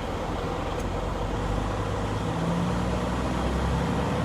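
Steady engine and road noise inside a tractor-trailer's cab as the truck creeps along in slow traffic, with a low engine hum that picks up a deeper tone about halfway through.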